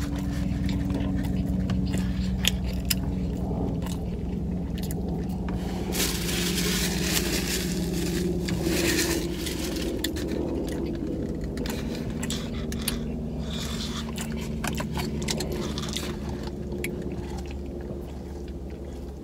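Close-up eating sounds: chewing and biting into a chicken teriyaki sub, with clicks and paper-wrapper rustling around the middle, over a steady low hum of the car cabin. Near the end, a sip of drink through a straw.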